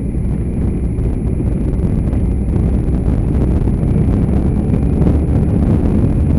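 Wind buffeting the microphone of a motorbike on the move, with engine and road noise as a steady low rumble that grows a little louder from about halfway through.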